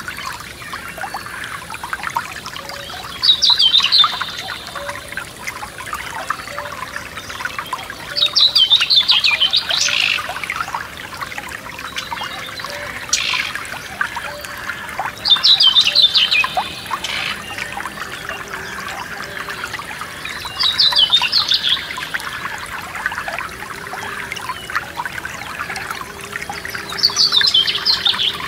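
A small forest stream trickling and splashing over stones, steady throughout. Over it, a songbird sings a short, fast trilled phrase five times, about every five to six seconds.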